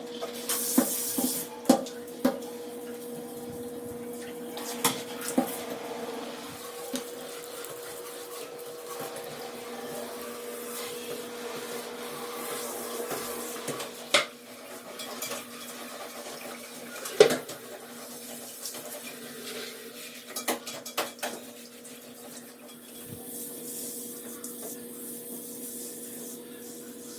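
Dishes and cutlery clinking and knocking now and then, the loudest clink about seventeen seconds in, over a steady low hum.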